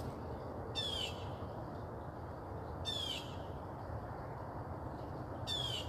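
A bird calling three times, each call a short, quick run of high falling notes, over a steady low background rumble.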